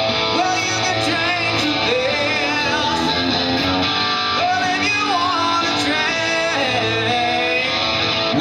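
Live rock band playing: guitars strummed and played under a male voice singing.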